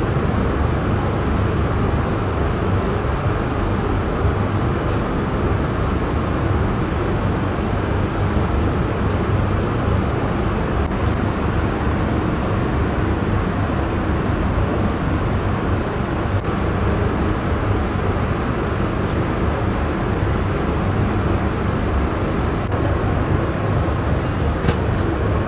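Steady cabin noise of a Boeing 787-8 airliner in flight: a constant rush of air with a low hum underneath.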